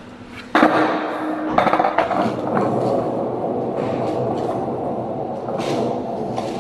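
Skateboard wheels rolling over wet pavement: a sharp clack about half a second in, then a steady rolling rumble with a few knocks.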